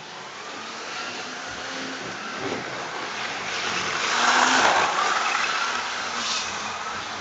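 Model train running along the track: the motor and wheels make a hiss that swells to its loudest about four to five seconds in as it passes close, then fades.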